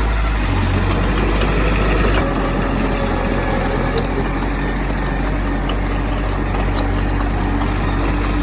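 Heavy diesel engine of earthmoving machinery running steadily, with slight changes in its low drone about half a second and two seconds in.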